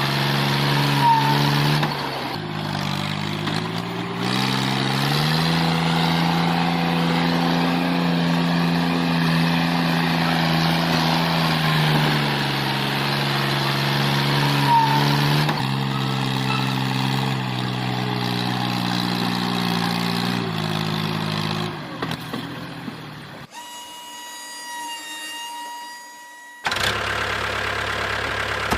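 Motor of a miniature DIY tractor running, a steady hum whose pitch steps up and down several times as the load changes. About two-thirds of the way through it gives way to a quieter, thin high whine for a few seconds, then a steady running sound returns near the end.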